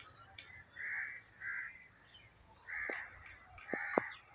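Harsh bird calls, four of them, in two pairs, with a few sharp clicks near the end.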